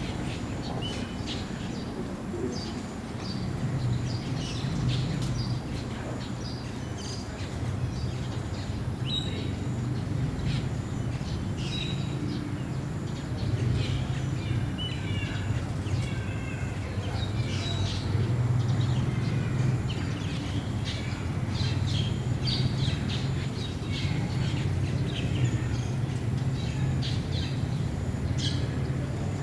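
Many birds chirping, with short high calls overlapping one another throughout, over a steady low hum.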